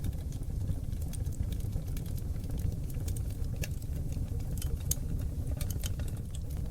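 Oak logs burning in a wood fireplace: a steady low rumble of flames with frequent sharp crackles and pops, several a second.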